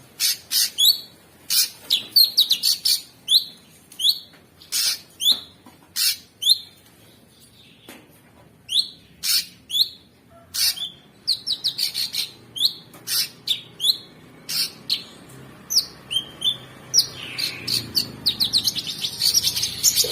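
Cucak sungkok singing: a string of short, sharp chirps that sweep down in pitch, coming in quick irregular bursts, then running together into a fast, dense trill near the end.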